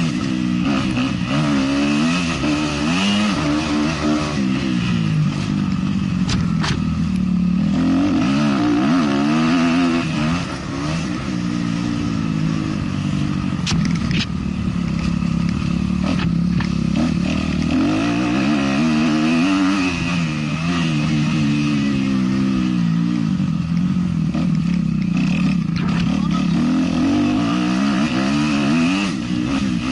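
A 450-class motocross bike's engine running hard, revving up and falling back over and over as it is ridden round a dirt track, with a few sharp knocks and clatters partway through.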